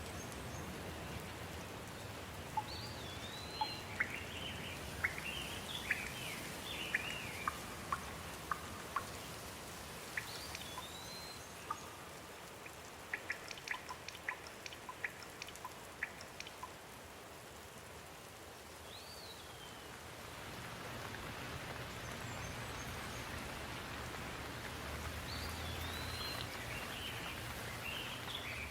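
Steady rain, with scattered drops ticking sharply in a quick run near the middle and bursts of bird chirps at intervals, the last near the end.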